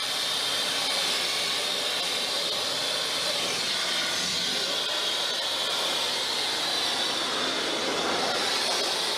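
Sandblaster blasting abrasive at a steel truck frame: a steady, unbroken hiss.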